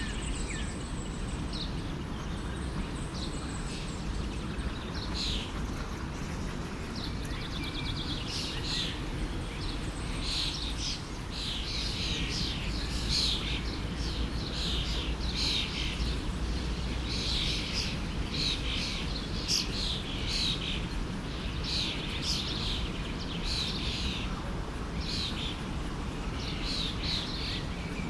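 Forest stream flowing with a steady rush of water, and small birds chirping over it, the calls coming thick and fast from about eight seconds in.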